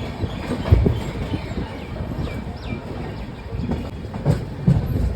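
Express train's coach wheels clattering and knocking over rail joints and points as it rolls along, with irregular thumps over a steady rumble; the loudest knock comes about a second in, and more follow near the end.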